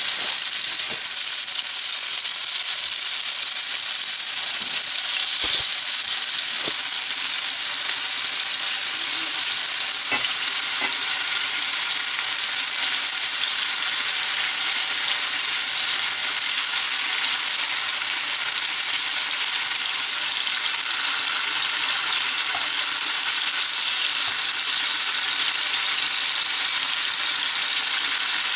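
Food sizzling steadily as it fries in a hot pan, with a few faint knocks, most of them in the first ten seconds or so.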